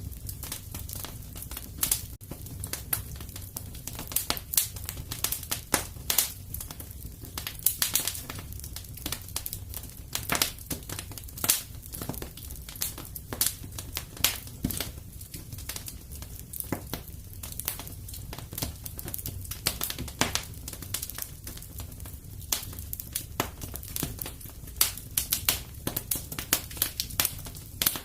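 Fire burning in a fireplace: steady crackling with many irregular sharp pops, several a second, over a low rumble of the flames.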